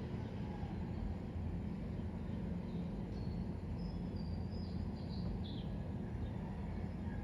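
Steady low background rumble with a handful of short, high bird chirps, mostly between about three and six seconds in.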